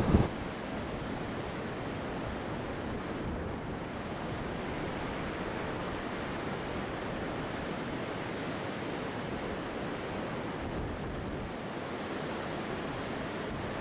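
Steady sea surf on a beach: an even wash of breaking-wave noise with some wind.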